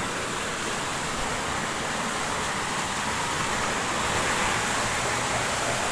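Steady, even rushing noise of water, without a break.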